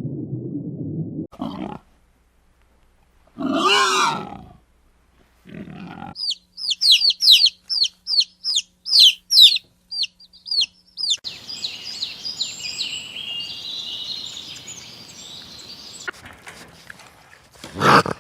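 A run of different animal calls: a few short harsh calls, then a rapid series of high, quick whistled bird calls, then a busy chatter of many birds, and one loud call near the end.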